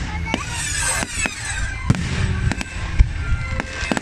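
Aerial fireworks going off: a rapid, uneven series of bangs and pops, with the sharpest bang about three seconds in.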